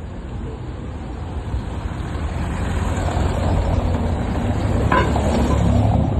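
Road traffic: a motor vehicle running close by, its rumble growing louder, with a brief high squeal about five seconds in.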